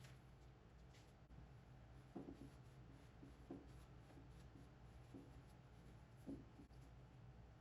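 Near silence: a steady low hum of room tone with a few faint, soft rubbing or handling sounds, about four of them a second or more apart.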